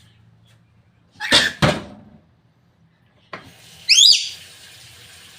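A pet parrot calling loudly: two short, harsh screeches about a second and a half in, then a sharp, rising, whistled call near the end. A faint steady hum runs underneath.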